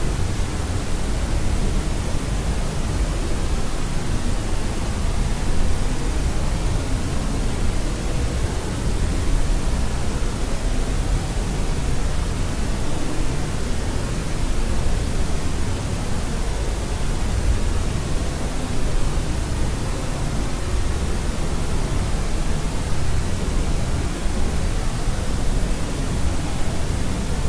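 A steady, unbroken white noise track for sleep: an even hiss with a deep, rumbly weighting, strongest in the bass and softer toward the treble, with no tones or changes.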